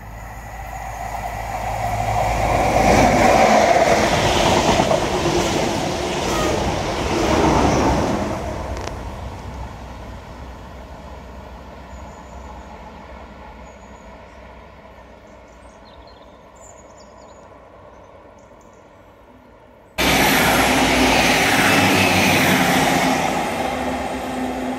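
A train passing close by on the line beside the seawall. Its wheels on the rails build to the loudest point about three to four seconds in, then fade away slowly as it moves off. Near the end another loud passing train starts abruptly.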